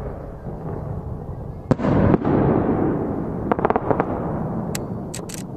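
Aerial firework shells bursting. There is a loud bang about two seconds in, a quick run of crackling reports a little later, and a few sharp pops near the end, each followed by a long rolling rumble of echo.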